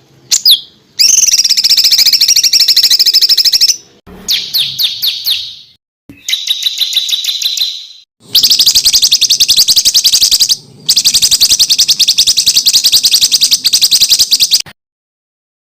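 Songbird song of rapid-fire, tightly packed bursts: a couple of quick whistled slides, then five fast chattering trills of many notes a second, each lasting one to four seconds with short breaks, stopping a second before the end.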